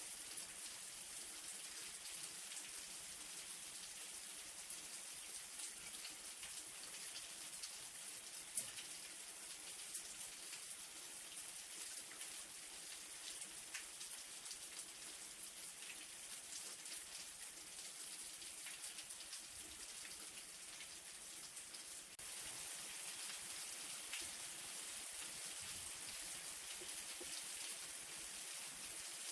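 Light rain falling steadily: an even high hiss with many scattered drops ticking. It grows slightly louder about three-quarters of the way through.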